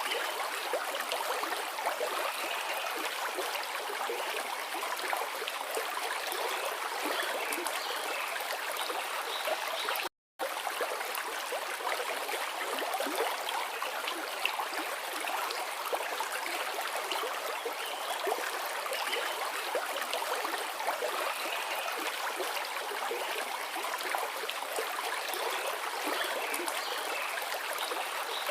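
Forest river flowing with a steady, even rush of water. The sound cuts out completely for a split second about ten seconds in.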